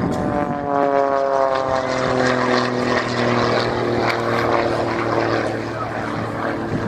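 Aerobatic Muscle Biplane's 330-horsepower piston engine and propeller running at display power. Over the first few seconds the engine note falls in pitch, then it holds steady.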